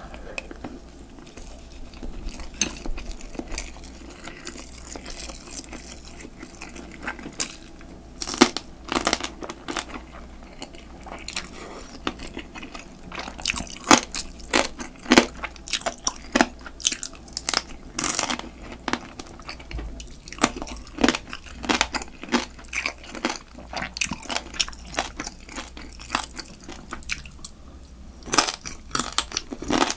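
Eating sounds from spicy marinated crab (yangnyeom-gejang): chewing a mouthful of rice at first, then biting and crunching through the crab's marinated shell in quick runs of sharp crunches, thickest through the middle and again near the end.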